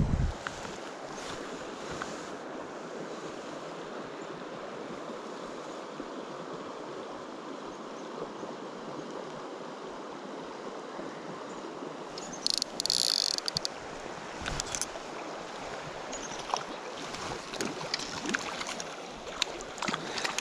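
Steady rush of a flowing river, with a low thump right at the start, a brief burst of splashing and clicks about halfway through, and scattered splashes and clicks near the end.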